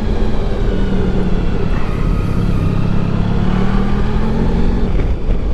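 Motorcycle engine running, its pitch climbing slowly for a few seconds before easing off near the end, over a steady low rumble of wind on the microphone.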